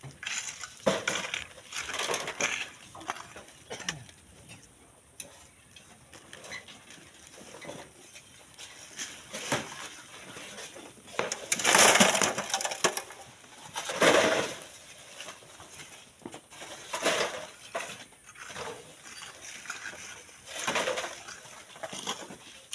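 Shovels scraping and crunching into sand and gravel in a series of separate strokes, one every second or few, the loudest about halfway through.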